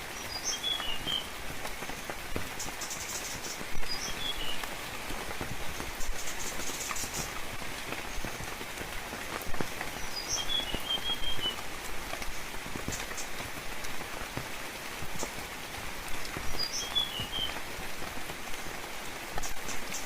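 Steady rain falling on foliage, with the patter of drops, and a small bird calling short chirping phrases about five times, a few seconds apart.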